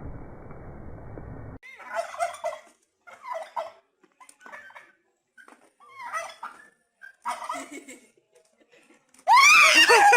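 Turkeys gobbling: five short rattling gobbles, about a second apart. Near the end comes a much louder, shrill cry that rises and falls in pitch.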